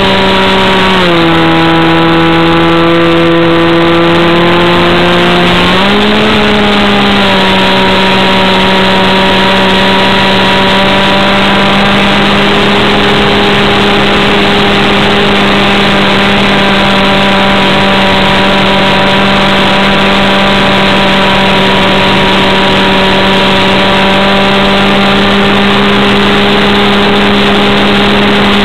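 A Sport Air 40 RC airplane's two-stroke engine running loud and fast at a high, steady pitch. About a second in the pitch drops as the throttle is eased. Around six seconds in it rises back and then holds steady.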